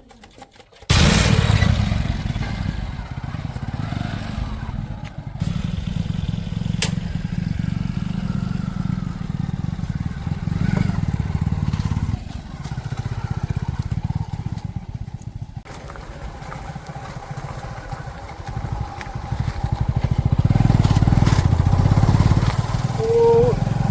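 Diesel engine of heavy earthmoving or farm machinery running under load. It comes in suddenly about a second in and grows louder near the end.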